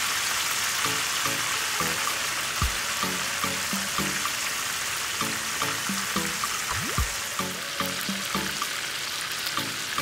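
Yellowfin tuna steaks frying in shallow oil in a pan, a steady sizzle of bubbling oil. Background music with short repeated notes and a deep falling bass hit twice plays over it.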